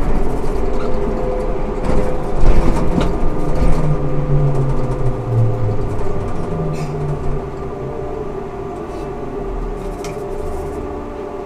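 Ikarus 280T articulated trolleybus running, its electric traction drive giving a steady whine with a low hum. The hum shifts in pitch between about four and seven seconds in, then the sound settles lower and steadier.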